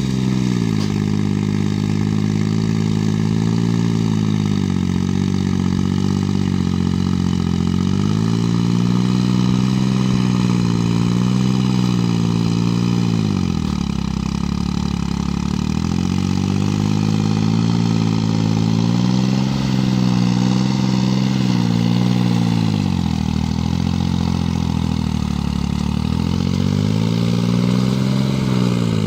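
Kubota 2202 tractor's diesel engine running under work. Its speed sags and recovers several times, dipping lowest about halfway through.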